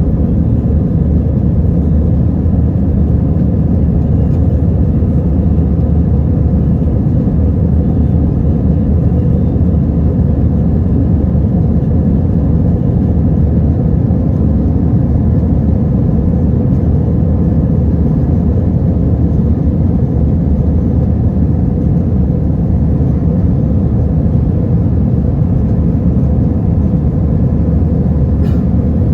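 Steady low rumble of a passenger jet in flight, heard from inside the cabin: engine and airflow noise that holds even throughout.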